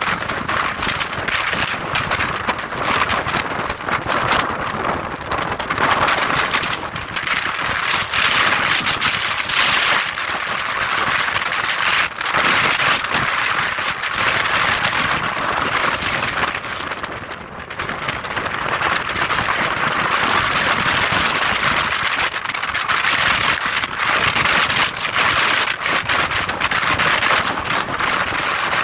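Gale-force wind of about 70 mph blowing across a phone's microphone: loud, unbroken noise that rises and falls with the gusts and eases briefly about two-thirds of the way through.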